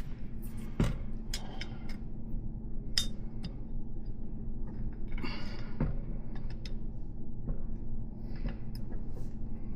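Scattered light metallic clicks and clinks of BMX hub, axle and spacer parts being handled and pushed into place, with a short scrape about five seconds in, over a low steady hum.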